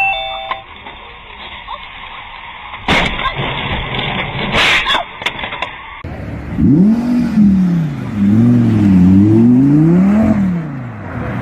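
A few loud bangs or knocks, then a car engine revving up and falling back several times in quick succession.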